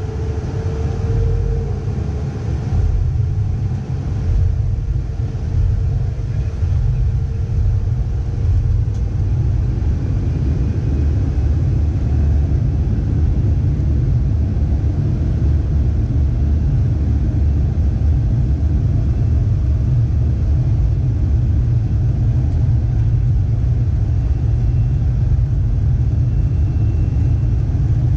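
Boeing 737-300 heard from inside the cabin: a loud, steady low rumble of the engines and airframe, building over the first few seconds and then holding even. A faint steady tone sits above it at first and fades out after several seconds.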